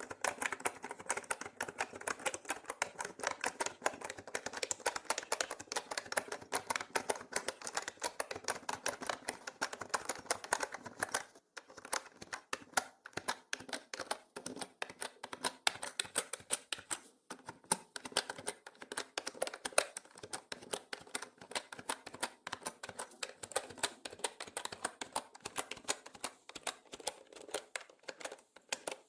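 Mechanical keyboard being typed on fast and continuously, a dense run of key clicks with brief pauses about a third and again about halfway in, mixed as 8D audio that pans around the listener.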